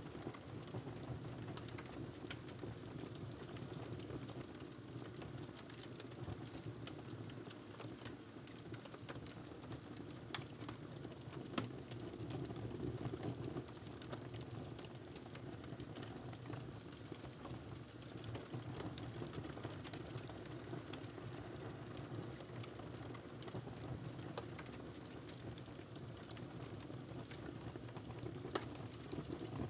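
Wood fire in a fireplace crackling, a steady low rumble of flames with scattered sharp pops and snaps, a few louder ones standing out.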